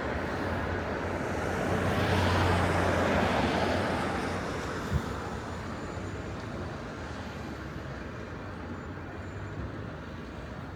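A vehicle passing on a city street: engine and tyre noise swell to a peak about two to three seconds in, then fade into a lower steady hum of traffic. A single short knock sounds about halfway through.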